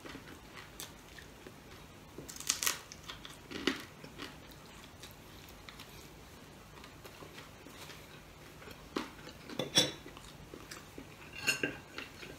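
Chewing and biting on a crispy fried chicken wing eaten off the bone by hand, with a few scattered crisp crunches a few seconds apart. Near the end a fork clinks on a plate.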